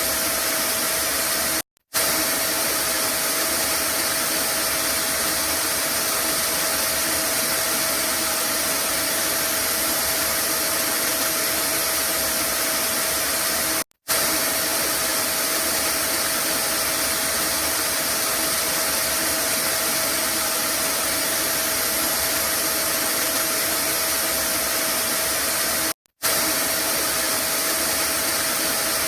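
Vacuum cleaner running steadily, a constant whooshing hiss with a faint steady hum in it, played as white noise. The sound drops out for an instant three times, about every twelve seconds.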